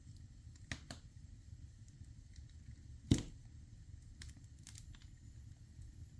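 Wood fire in a fireplace crackling: a few sharp pops and one louder crack about three seconds in, over a low steady rumble.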